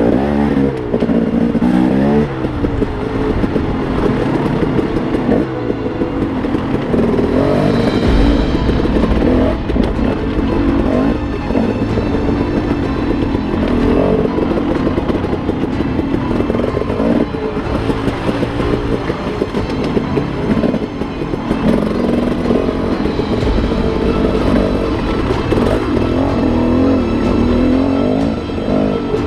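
Dirt bike engine being ridden, its revs rising and falling over and over with the throttle and gear changes.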